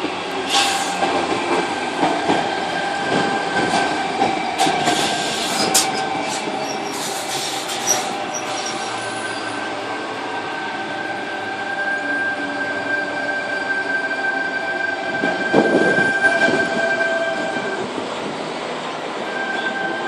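Sydney Trains Tangara electric train passing through the station, its running gear giving a steady whine held on a couple of pitches. Wheels click over the rail joints, with brief high wheel squeals about five to eight seconds in, and the noise swells again near the end.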